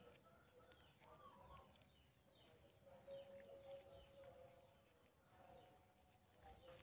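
Faint bird calls: many short falling chirps, with a few longer held calls, the clearest about halfway through.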